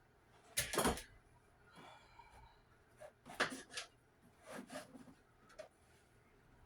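Kitchen handling noises: a handful of separate knocks and clatters as things are moved about, the loudest about a second in, with a brief faint ringing about two seconds in.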